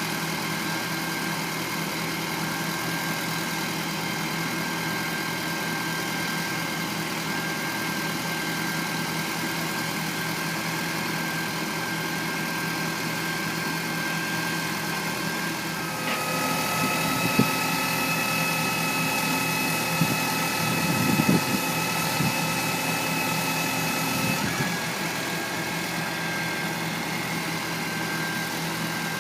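Tow truck engine idling steadily with a thin whine. About halfway through, the whine shifts to a different pitch for roughly eight seconds, with a few metallic clanks, then settles back.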